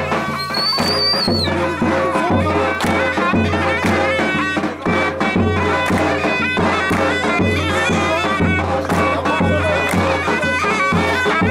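Traditional Turkish folk music on davul and zurna: a shrill reed-pipe melody over a steady bass-drum beat of about two strokes a second. A brief high whistle sounds about a second in.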